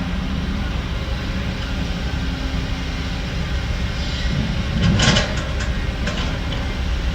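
Heavy diesel construction machinery running with a steady low rumble. About five seconds in comes a short loud burst of noise, followed by a few faint clicks.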